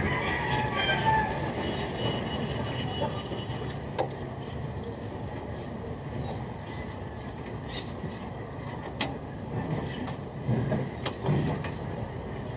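A vehicle engine running steadily, with a few sharp knocks: one about four seconds in and two more near the end.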